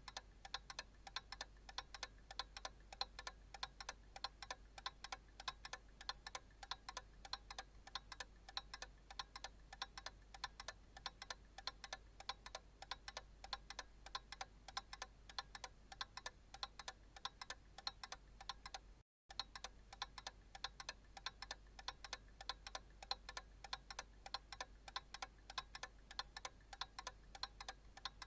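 Analog clock ticking, a quick even run of light ticks that drops out for a moment about 19 seconds in.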